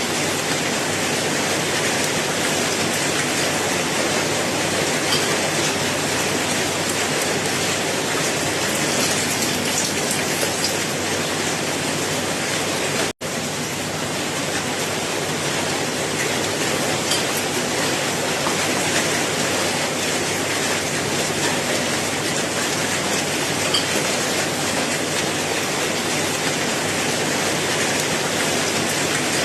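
Steady rain falling, an even hiss with a few faint separate drops. The sound cuts out for an instant about halfway through.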